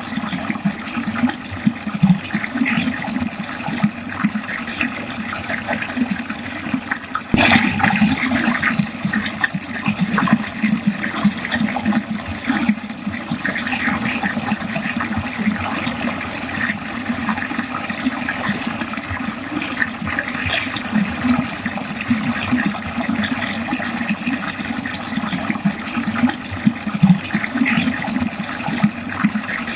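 Water running continuously down a drain, gurgling and splashing unevenly, with a small surge about seven seconds in.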